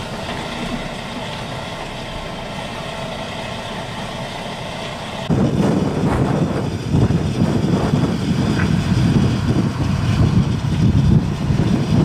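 Steady hum of an idling vehicle engine, then about five seconds in loud, gusting blizzard wind starts buffeting the microphone with a low rumble.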